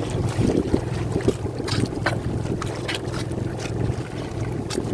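A fishing boat's motor runs with a steady low hum, with scattered sharp clicks and knocks over it.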